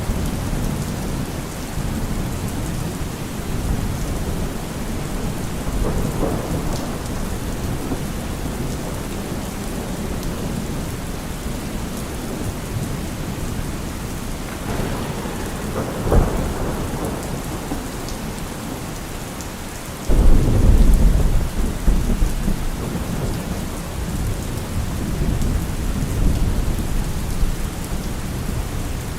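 Steady rain falling on a surface, with thunder rumbling through it. There is a sharp crack a little past halfway, and a sudden loud, deep roll of thunder about two-thirds of the way in that is the loudest sound.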